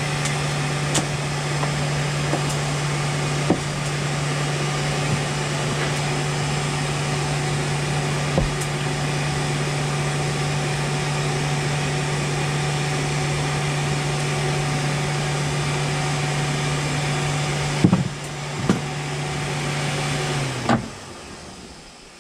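Electric forge blower running with a steady hum and rushing air, a few light metal clinks over it; about three-quarters of a second before the end it is switched off and its hum drops and dies away.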